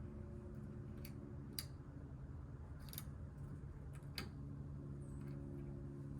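A few sharp, scattered clicks of hand tools at work, about a second apart at first, over a steady low hum.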